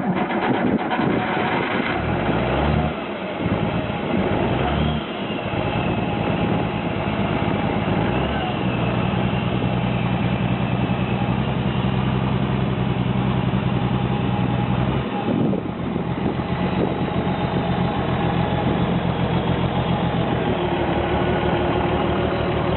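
Diesel engine running just after a cold start, with a fast even clatter; it is revved briefly twice near the beginning, then runs at a steady speed. The sound changes abruptly about fifteen seconds in, then the engine keeps running.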